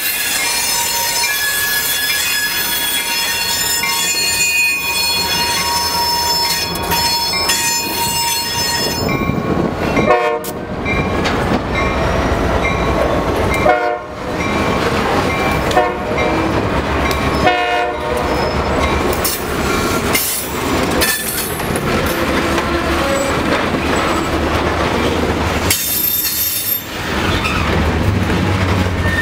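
Freight train of covered hopper cars rolling past close by. Steel wheels squeal high-pitched over the first several seconds, then the cars rumble by with a few sharp clanks from the wheels and couplers.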